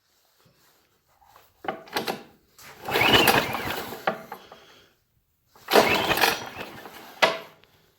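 Recoil starter rope of a Briggs & Stratton snowblower engine pulled twice, about three seconds apart. The spark plug is out for a spark test, so each pull spins the engine over without it firing.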